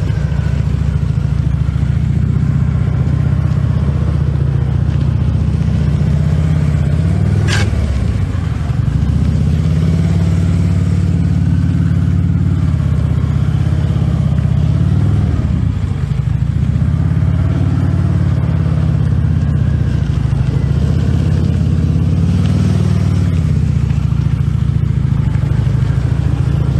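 Harley-Davidson Ultra Limited Low's V-twin engine running steadily at low revs. The throttle dips and picks back up three times. There is one sharp click about seven and a half seconds in.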